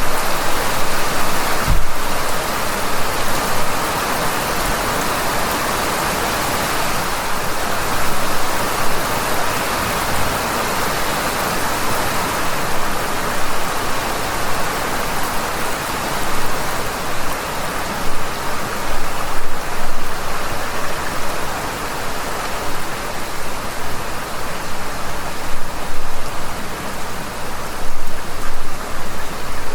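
Heavy rain falling and hitting surfaces in a dense, steady hiss, with a short low thump about two seconds in.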